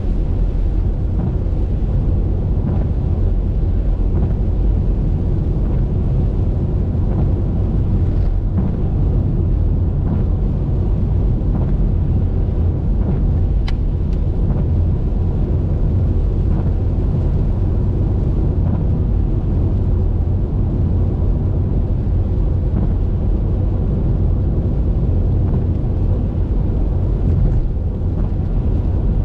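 Steady, deep rumble of a car driving along a highway: tyre, engine and wind noise picked up by a GoPro on the car. A single sharp tick sounds about halfway through.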